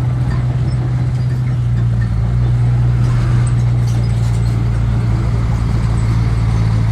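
Heavy diesel engine of earthmoving equipment running steadily with a deep, even drone, rising slightly a few seconds in.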